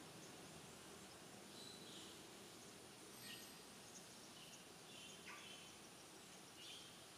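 Faint, short, high bird chirps, about five of them spaced a second or so apart, over a steady faint hiss.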